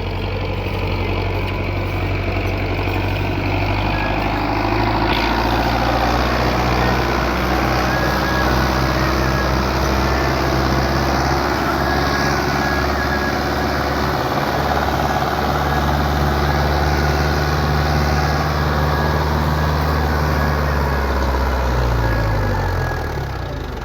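Belarus 510 tractor's diesel engine running hard under load, pulling a loaded trolley stuck in mud. The engine note shifts about five seconds in and falls as the engine slows near the end.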